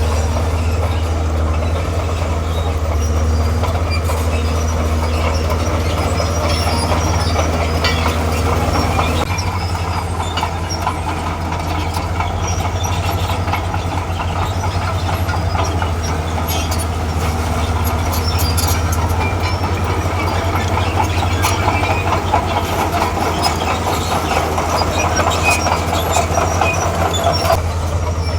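Diesel engine of a tracked earthmover running steadily under load, with its steel crawler tracks clanking and squeaking as it moves.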